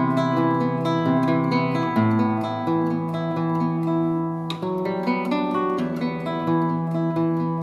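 Background music: acoustic guitar strummed and plucked.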